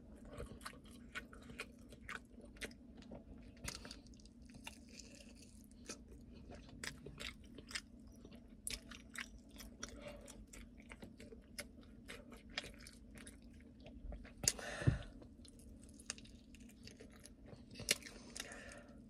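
Close-up chewing and biting of chicken wings: many short mouth clicks and smacks throughout, with a louder noise about fifteen seconds in.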